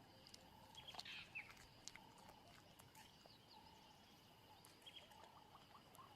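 Faint bush ambience: scattered bird chirps over a steady high hum, with a few faint clicks.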